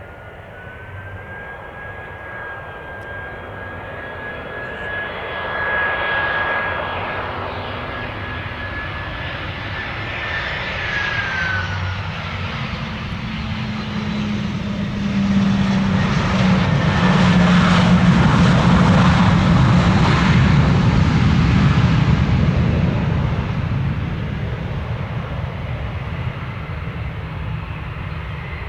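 Jet airliner passing: a high engine whine drops in pitch about eleven seconds in, while the engine rumble builds to its loudest about two-thirds of the way through, then fades.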